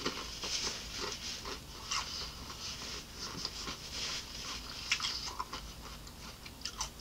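A person chewing a slice of raw cucumber: a run of small, crisp, wet crunches that keeps on without a break.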